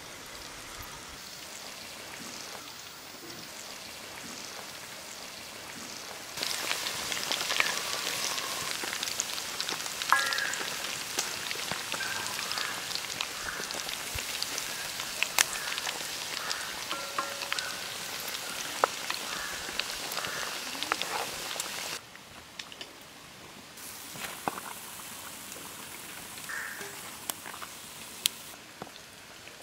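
Masala-coated chicken pieces frying in hot oil: a steady sizzle with many small crackles and pops. It grows louder several seconds in and drops back to a quieter sizzle about three-quarters of the way through.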